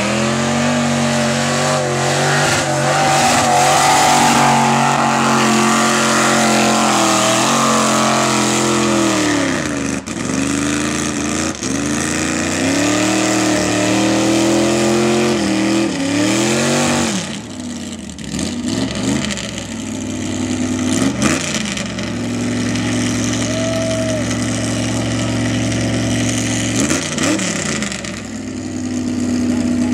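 Mud truck's engine revving, the revs hanging high for long stretches and falling back twice, then running lower with a few short blips: a sticking throttle, which the owner thinks comes from a loose hose clamp.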